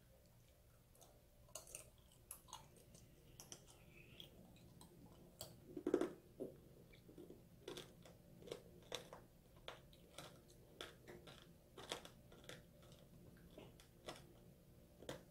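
Close-up chewing of strawberry tanghulu: a series of sharp, uneven crunches as the hard candy-sugar shell cracks between the teeth, the loudest about six seconds in.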